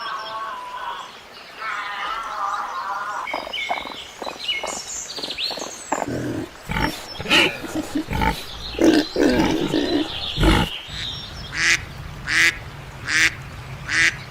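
A run of varied animal calls, bird-like chirps and fowl calls among them. About two-thirds through, a duck starts quacking steadily, roughly once every 0.8 s.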